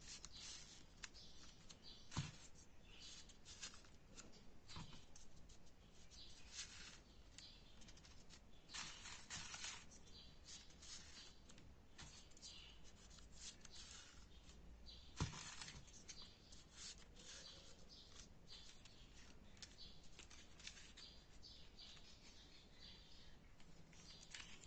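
Faint rustling and crinkling of folded paper units being handled and pushed together for 3D origami, in many short bursts, with a few soft taps about 2, 5 and 15 seconds in.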